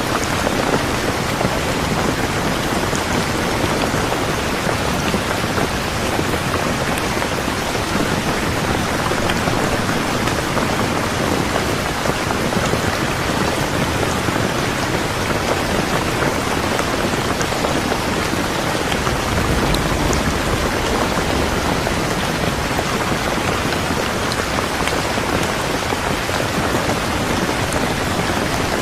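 Steady, dense rainfall hitting surfaces, an even hiss of many drops without pause.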